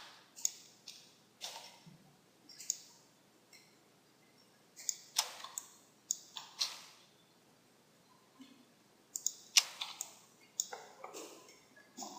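Computer mouse clicking at an uneven pace: single clicks and short runs of two or three, with a gap of about two seconds in the middle.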